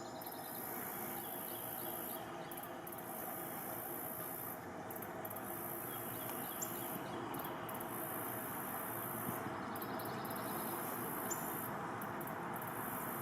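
Insects trilling steadily over an outdoor background hiss, their high buzz cutting out briefly now and then.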